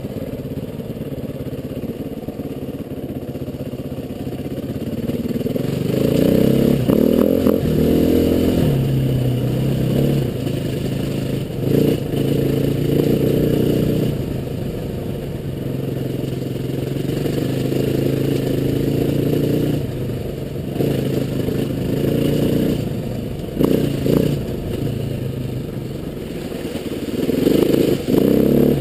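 Trail motorcycle engine running under way, its pitch rising and falling again and again as the throttle is opened and eased off, with occasional knocks and clatter from the bike over rough ground.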